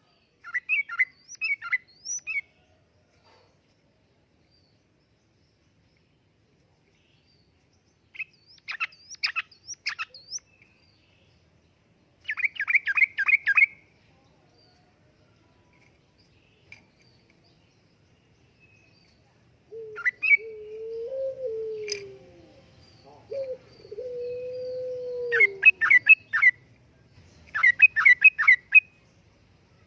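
Yellow-vented bulbul singing: short phrases of quick warbling notes, repeated every few seconds with silent pauses between. About two-thirds of the way through, a lower, drawn-out whistle rises and falls for a few seconds.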